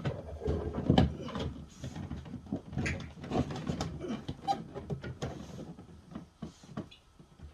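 Irregular clattering and knocking of objects being handled, with many short clicks that thin out near the end.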